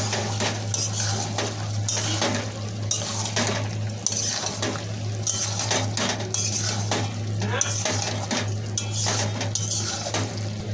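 A cooking utensil scraping and clinking against a pan in irregular repeated strokes as a thick chicken curry is stirred and mixed. A steady low hum runs underneath.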